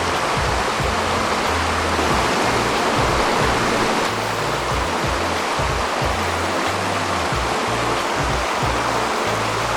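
Mountain stream water rushing steadily, with background music and its bass line laid over it.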